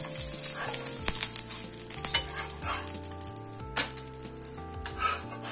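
Butter sizzling on a hot dosa griddle as an egg-and-cheese bread toast fries, the sizzle fading as it goes on. A metal spatula scrapes and knocks on the griddle as the toast is turned over, with a sharp knock a little past the middle.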